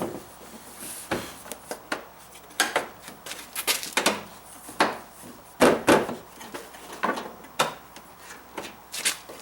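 Irregular plastic clicks and knocks from a 2006 GMC Envoy's headlight assembly being pushed and snapped into its mounting clips. The loudest pair of knocks comes about six seconds in.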